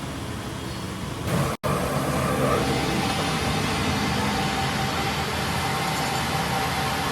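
Steady mechanical running noise, a continuous hum with a faint steady high tone, broken by a split-second dropout about a second and a half in, after which it is a little louder.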